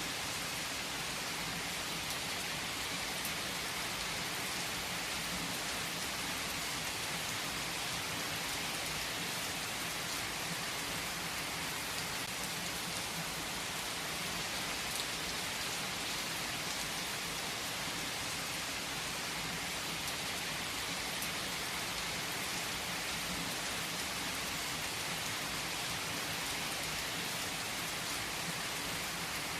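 Steady rain falling in an even, unbroken hiss that holds the same level throughout.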